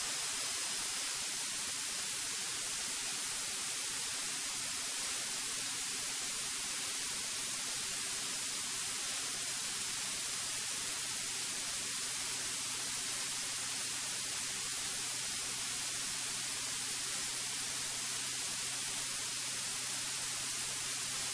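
Steady hiss of a light aircraft's cockpit audio feed, with a faint, steady low engine hum underneath.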